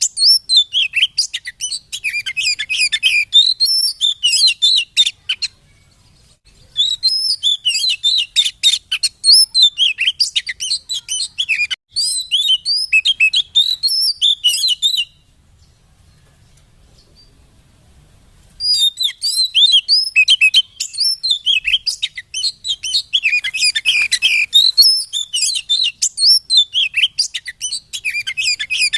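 Oriental magpie-robin (kacer) singing a fast, varied run of chirps and whistles. It comes in three long bouts, broken by a short pause about six seconds in and a longer pause of about three seconds midway.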